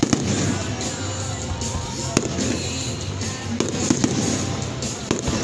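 Aerial fireworks shells bursting with sharp bangs, a couple right at the start, one about two seconds in and a cluster near four seconds, over music playing throughout.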